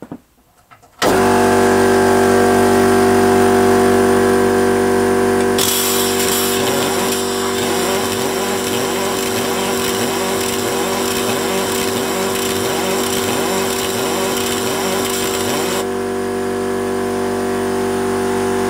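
Electric air compressor running steadily as it fills its tank, with a constant pitched hum. It starts about a second in, and a rougher hissing layer is added through the middle stretch.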